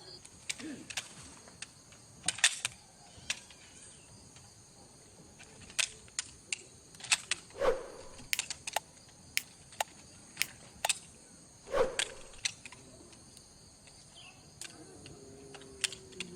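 Wood fire crackling, with irregular sharp pops and two stronger snaps about 8 and 12 seconds in, over a faint steady chirring of night insects.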